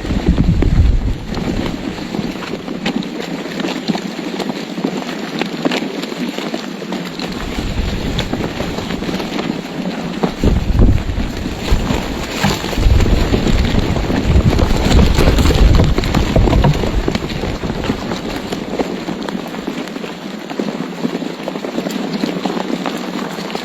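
Wind noise on the microphone: a steady rushing hiss, with heavy low rumbling gusts that drop out for a few seconds near the start and again near the end.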